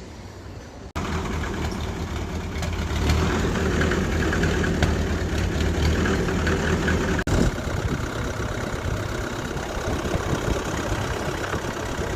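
Tractor engine idling steadily with a low, even running note. The sound changes abruptly about a second in and again about seven seconds in.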